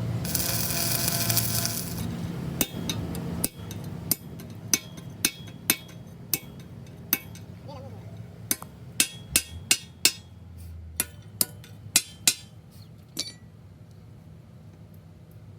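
A hiss of noise for about two seconds, then metal being struck with a hammer: a long run of sharp, irregularly spaced blows, about twenty in all, each with a short ring, stopping a couple of seconds before the end.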